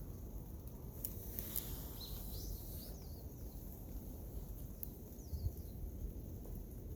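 Small birds chirping, a few short high calls about a second in and again near the end, over a steady low outdoor rumble with a few faint clicks.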